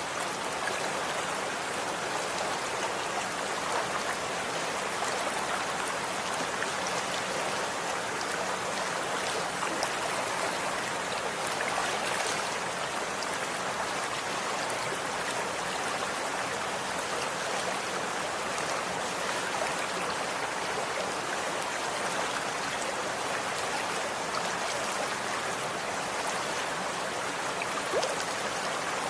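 Running water flowing steadily, an even rushing wash with faint splashing ticks and no change in level.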